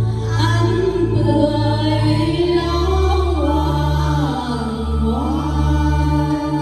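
Several voices singing a folk melody together over instrumental accompaniment with long, steady bass notes.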